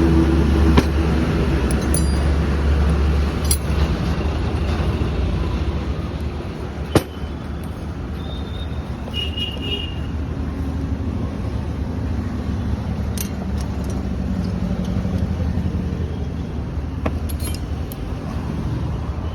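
A motor vehicle engine running, strongest in the first few seconds and then easing into a steadier rumble, with occasional sharp clicks.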